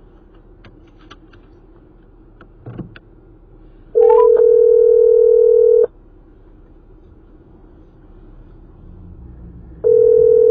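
Telephone ringback tone of an outgoing call, played through the car's hands-free speakers: one steady two-second ring about four seconds in, and a second ring starting near the end. Low cabin hum and a few faint clicks sound between the rings.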